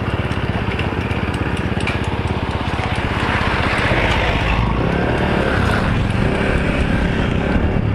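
Motorcycle engine running steadily during a ride, with a louder rush of noise in the middle.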